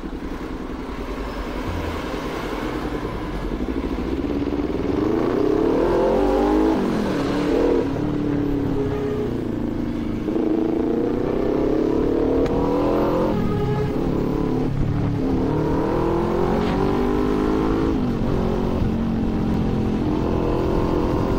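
Kawasaki Z400 parallel-twin engine and exhaust pulling away under throttle. Its pitch climbs and then drops back at each gear change, about five times over.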